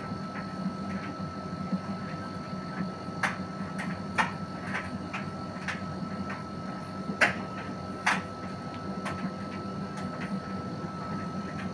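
Irregular sharp clicks and taps, a dozen or so, the loudest about four and seven seconds in, over a steady low hum and a thin steady tone.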